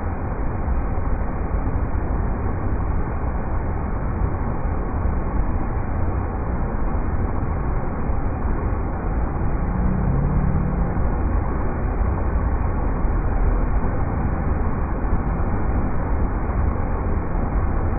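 River rapids rushing: a steady, unbroken wash of water noise, heaviest in the low end.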